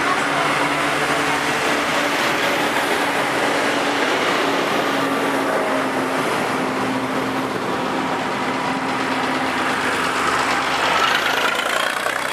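Tractor engines running steadily as tractors drive past on the road.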